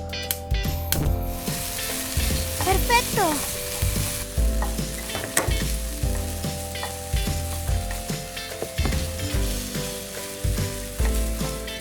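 Food sizzling as it fries in a hot pan, the hiss strongest in the first few seconds, over background music with a steady bass pulse.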